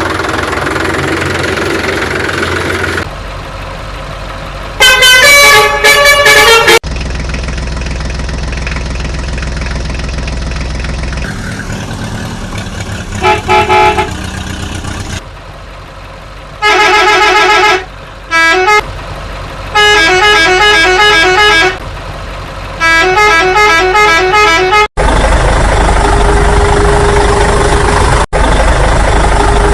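Heavy vehicle engine running steadily, broken by loud horn honks in several bursts: a few toots about five seconds in, then repeated blasts through the middle, some as rapid pulsing beeps. Near the end the engine runs louder and rougher.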